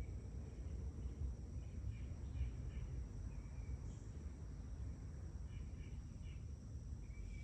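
Quiet outdoor ambience: a faint steady high insect drone with scattered soft chirps over a low rumble.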